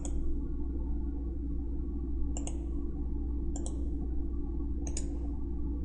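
Computer mouse clicking: four short clicks a second or so apart, over a steady low electrical hum.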